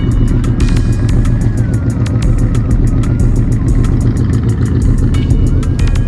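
Oldsmobile 455 V8 running steadily with a deep low drone, heard from inside the car, with music playing faintly over it.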